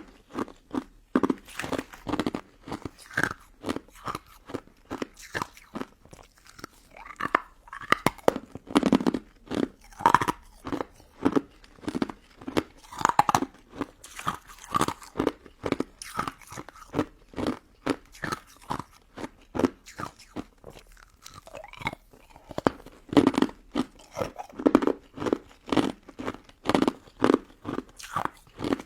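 Close-miked mouth biting and chewing a crunchy pink crystal snow ice dessert: a steady run of sharp, brittle crunches, a few each second.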